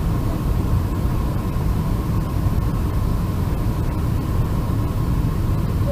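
Boeing 747-400 jet engines and airflow making a steady low rumble and hiss, with a faint steady hum above it.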